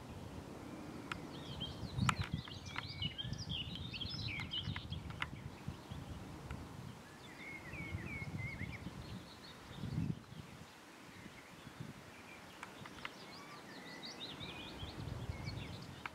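Small birds chirping in short bursts of song over a low, uneven rumble, with a few sharp clicks.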